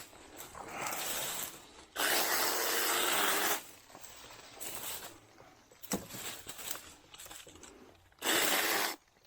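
Small 6-inch battery-powered chainsaw cutting into a small tallow tree in two bursts, the first about a second and a half long, the second shorter near the end, with rustling of brush in between.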